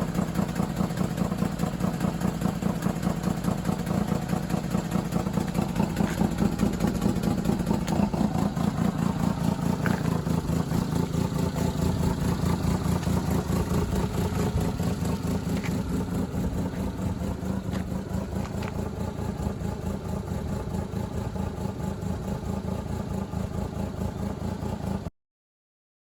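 Daihatsu Hijet dump truck engine running at idle with a steady, rapid pulse; it cuts off suddenly near the end.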